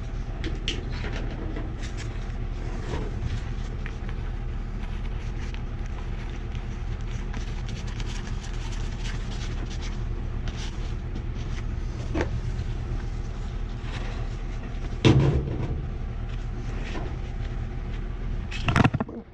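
A steady low machine hum, with scattered light clicks and knocks from threaded metal gas-pipe fittings being handled and worked. Two louder knocks stand out, one about three-quarters of the way through and one just before the end.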